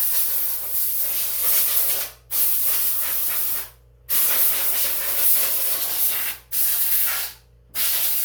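Compressed-air blow gun blowing loose dirt off an engine: a loud hiss in repeated bursts of one to two seconds, each starting and stopping sharply with short breaks between.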